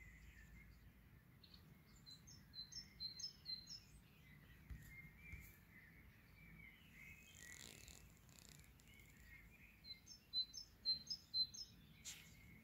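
Faint songbird song: a phrase of about six quick repeated high notes, heard twice, about two seconds in and again near the end, with fainter twittering in between.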